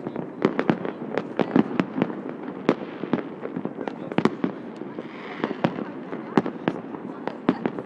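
Fireworks and firecrackers going off, a dense irregular stream of sharp bangs and pops at varying distances over a continuous background din. A brief hiss comes about five seconds in.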